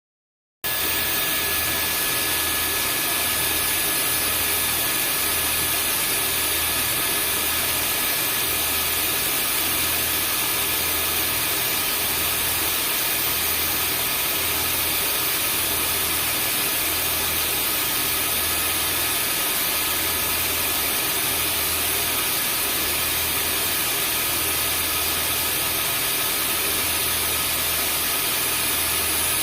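Vacuum cleaner running steadily as white noise: an even rushing sound with a few thin high tones over it and a low hum that pulses about once a second. It comes in abruptly about half a second in.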